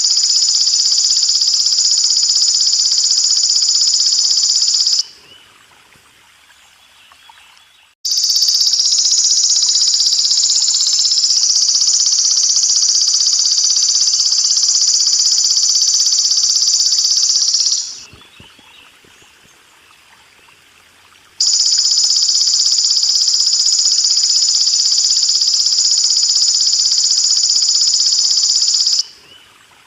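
Belalang emas insect buzzing continuously and high-pitched in three long bouts, the middle one about ten seconds long, stopping and starting abruptly with gaps of about three seconds between them. Running water trickles faintly underneath.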